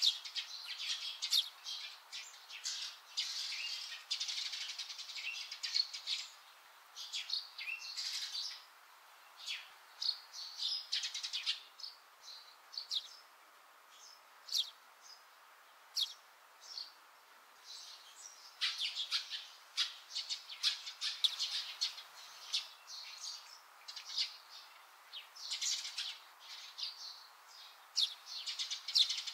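Small birds chirping in quick, irregular runs of short, high calls, with a few quieter gaps between runs.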